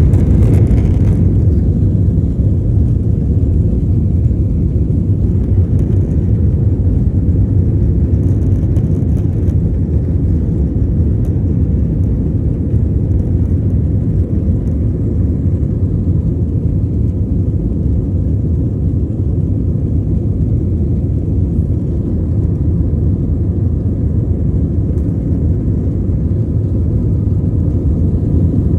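Passenger airliner taking off: a steady, loud low rumble of engines and airflow.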